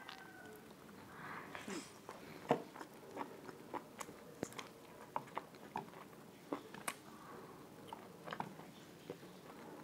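Close-miked chewing and biting of puri and potato curry eaten by hand: a string of short sharp mouth clicks at irregular intervals, the loudest about two and a half seconds in.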